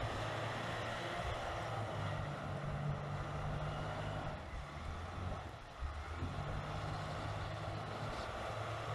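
Heavy snow-clearing vehicle's engine running steadily, its low tone shifting a little past the middle.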